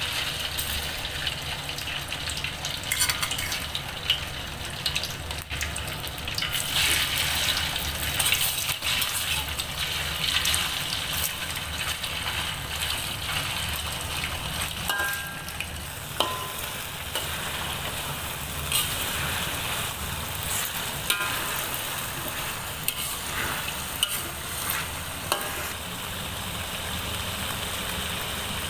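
Marinated pork pieces frying in hot oil in a steel wok: a steady sizzle, with scattered clicks and scrapes of a metal spatula against the wok as the pieces are turned.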